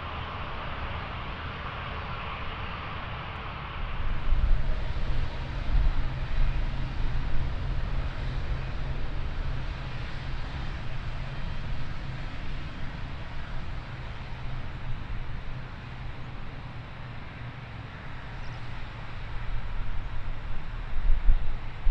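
Jet-engine noise at an airport: a steady hiss and whine that gives way abruptly, about four seconds in, to a louder, uneven low rumble from a British Airways Boeing 777-200ER departing, which swells again near the end.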